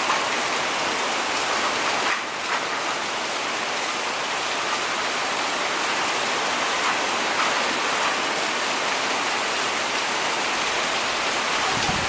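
Steady heavy rain: an even, unbroken hiss of rainfall, briefly dipping about two seconds in.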